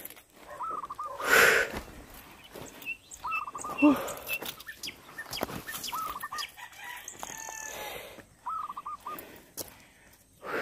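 A bird calling: a quick run of four or five short notes, repeated about every two and a half seconds. Two louder rushes of noise come in the first four seconds.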